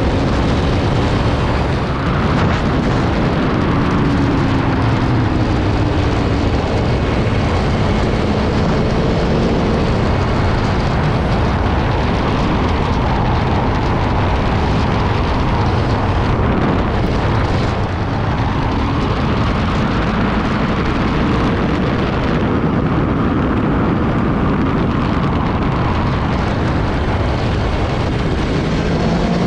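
Aprilia Tuono V4 1100's V4 engine running on the move, its note rising and falling in the first few seconds, under a steady loud rush of noise.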